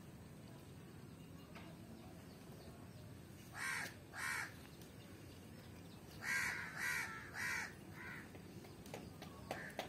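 A bird calling off-picture in short, loud calls: two about three and a half seconds in, then four more in quick succession from about six to eight seconds in, the last one quieter.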